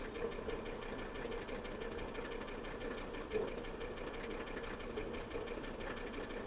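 Mercedes-Benz W123 engine idling steadily, heard from inside the cabin.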